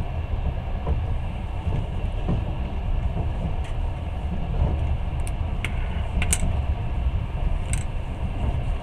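Long-distance passenger train running at speed, heard from inside the carriage: a steady low rumble of wheels on track, with a few sharp clicks in the second half.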